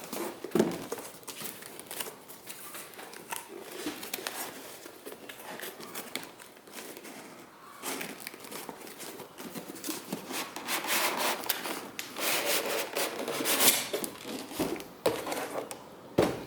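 Packaging being handled while a power tool is unboxed: cardboard and wrapping rubbing and crinkling, with scattered knocks. The crinkling is busiest and loudest about two-thirds of the way through.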